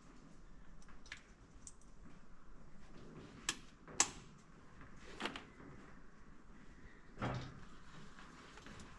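A few sharp clicks and knocks of hard objects being handled, spaced irregularly, the loudest about four seconds in, over a faint background hum.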